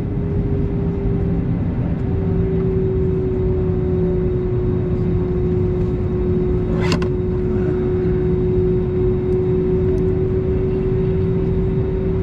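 Airbus A320neo cabin during the takeoff roll: jet engines at high thrust with a steady whine and a heavy, continuous rumble from the runway. One short click about seven seconds in.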